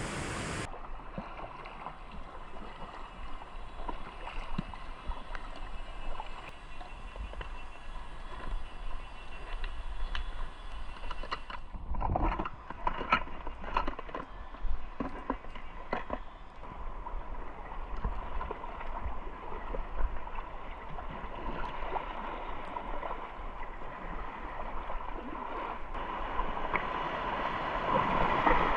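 Packraft paddle strokes dipping and splashing in a river over the sound of flowing water, with a flurry of stronger splashes partway through. The rush of the water grows louder near the end.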